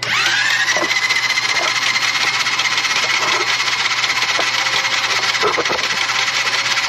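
Starter motor cranking the Cessna 120's Continental engine with the spark plugs out: a whine that starts abruptly, rises in pitch over the first half second, then holds steady over an even rattle as the propeller turns without firing. This is a dry crank to pre-oil the engine and build oil pressure.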